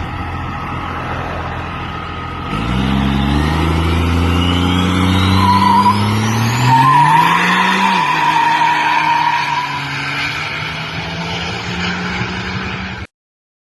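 Truck engine running, then revving hard for several seconds with a thin whistle climbing steeply in pitch while the tyres squeal in a burnout. The revs drop back to a steady run about 8 s in, and the sound cuts off abruptly just before the end.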